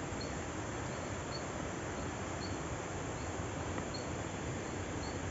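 An insect chirping in the forest: short high chirps repeating at a steady pace, about one or two a second, over a steady hiss.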